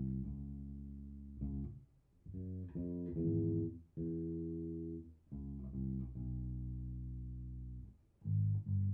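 Electric bass, tuned down a half step, played through a Fender Rumble 100 V3 bass combo amp. Single low notes are plucked and left to ring and fade, a new note every one to two seconds, with two quick notes near the end.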